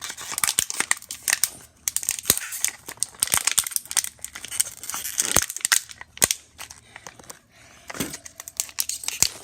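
Crinkling and irregular clicking of an empty plastic water bottle being handled, busiest in the first half and sparser after.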